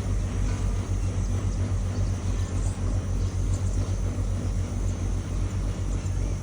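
Riverboat engine running with a steady low drone.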